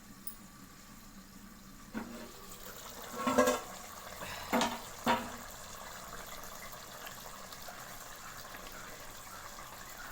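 Lid being taken off a clay cooking pot of simmering chicken masala: a light click about two seconds in, a louder knock a little later and two more knocks around five seconds, over the steady low hiss of the pot simmering.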